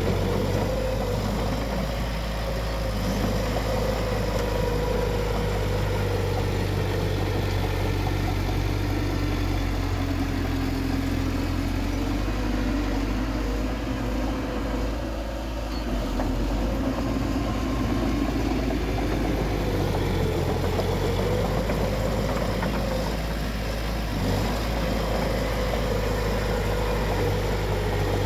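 Bulldozer's diesel engine running steadily. Its pitch drops for a few seconds in the middle and then rises again as the load and revs change.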